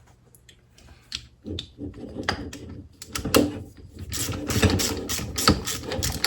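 Ratcheting torque wrench clicking as it turns the bolt inside a Harley V-Rod fork leg. The clicks are sparse at first and come quicker and more steadily in the second half.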